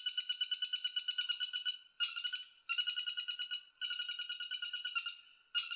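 Woodpecker calling: a rapid rattling trill of high notes, about ten a second, repeated in runs of one to two seconds with brief breaks between them.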